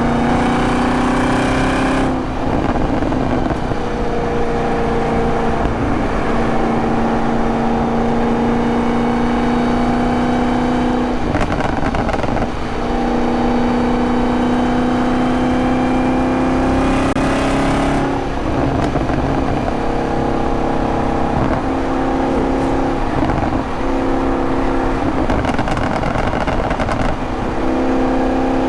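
Supercharged 6.2-litre V8 of a 2023 Camaro ZL1 with a six-speed manual, pulling under load on the road: its note climbs slowly for several seconds at a time, with short breaks where the throttle comes off. In the last ten seconds the note comes in shorter, choppier stretches.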